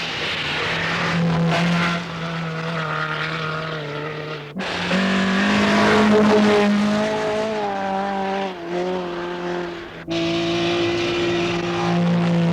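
Rally car engines running hard at high revs, a steady pitched drone whose pitch steps and slides up and down. It breaks off abruptly twice, about four and a half seconds and ten seconds in, as one shot cuts to the next.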